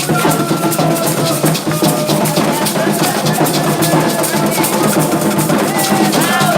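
Candomblé ritual music: hand drums beating a steady, fast rhythm with rattles, under group singing.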